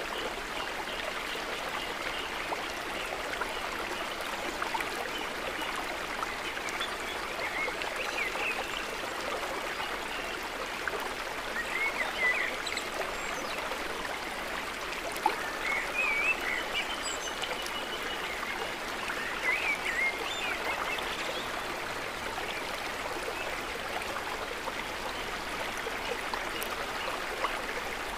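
Steady trickling and gurgling of water, with a few short chirping animal calls scattered through the middle.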